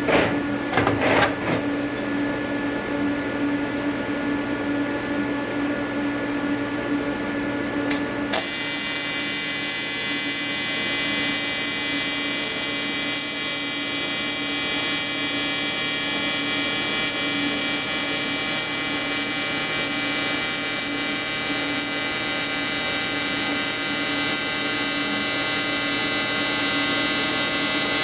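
AC TIG welding arc buzzing steadily on aluminium, from a square-wave AC output pulsed at 100 to 150 Hz. A few clicks sound right at the start, and about eight seconds in the buzz jumps suddenly louder and harsher and stays there.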